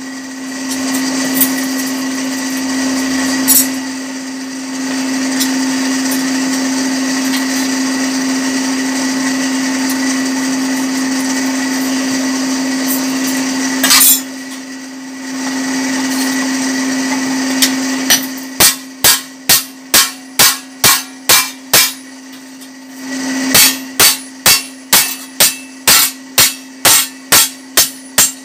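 Electric furnace blower humming and whirring steadily, with one sharp knock about halfway through. In the last third come two runs of quick hammer blows, about three a second, as the smith beats the edge of a red-hot fodder-chopper blade thin.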